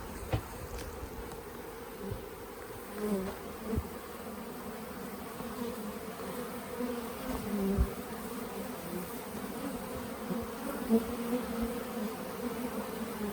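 Honeybees buzzing around a hive, with single bees passing close and the hum swelling and fading. A few soft bumps come through.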